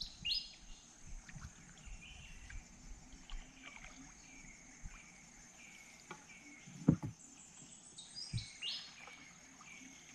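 A bird sings repeated phrases of clear whistled notes that step down in pitch, over a steady high insect drone. Two dull knocks come from the small canoe about seven and eight and a half seconds in; the first is the loudest sound.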